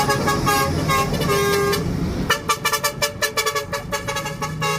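Truck horn honking: a few short toots, then a rapid run of short blasts at about eight a second, over a running engine.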